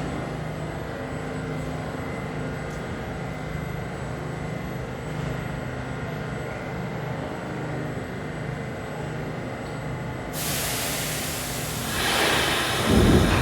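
R46 subway train with a steady hum, and about ten seconds in a sudden hiss of air that grows louder near the end.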